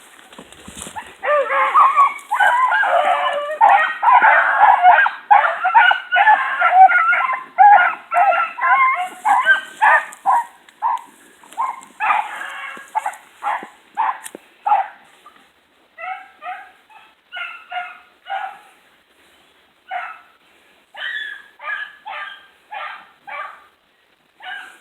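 A pack of hunting hounds baying on a trail. Many voices overlap densely for the first several seconds, then thin out into separate barks, about two a second, with short gaps.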